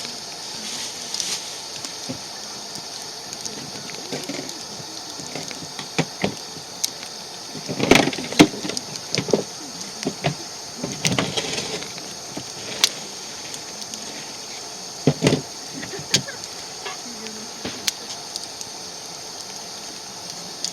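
Wood fire crackling, with irregular sharp pops over a steady hiss, and a louder cluster of knocks about eight seconds in and again about eleven seconds in.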